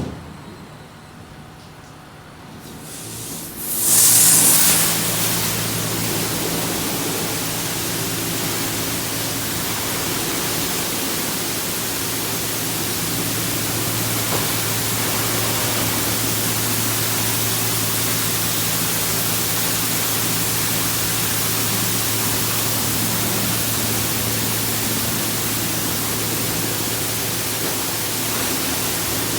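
Ryko SoftGloss Maxx 5 car wash spraying water onto the car, starting suddenly about four seconds in with a loud burst of hiss, then a steady spray over the even hum of the wash's pump motor.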